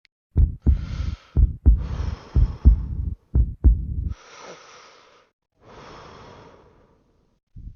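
Heartbeat, four lub-dub pairs of low thumps about a second apart, followed by two slow, heavy breaths.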